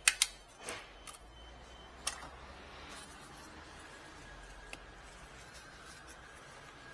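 A handful of sharp plastic clicks and taps in the first two seconds as parts of an ink-bottle kit are handled, then only faint handling noise.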